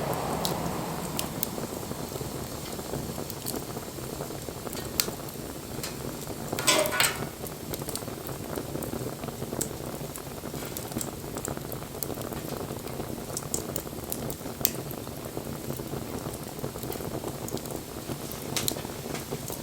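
Wood bonfire burning with a steady hiss and scattered sharp crackles and pops. About seven seconds in there is a louder burst with a short whistling note.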